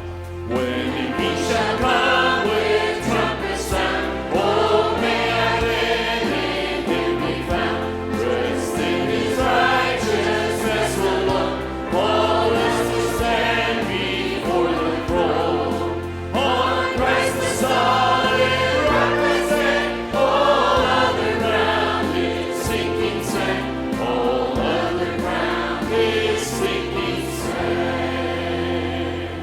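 Choir singing a gospel song in a church worship service, with instrumental accompaniment and a bass line underneath.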